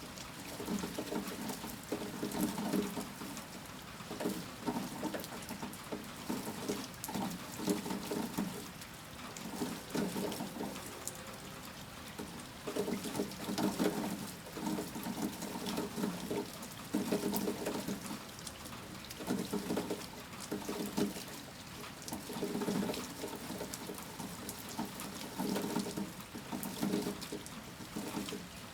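Heavy rain falling, with water splashing and pattering unevenly in louder pulses every second or so.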